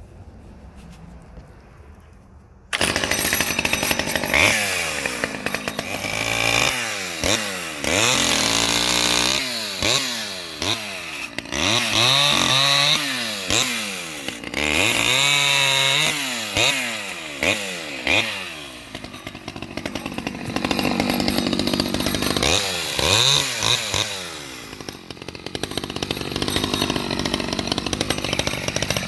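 Stihl 011 AV two-stroke chainsaw of about 32 cc, which comes in suddenly about three seconds in and is then revved up and down again and again while cutting wood, its pitch held high for stretches and sagging under load.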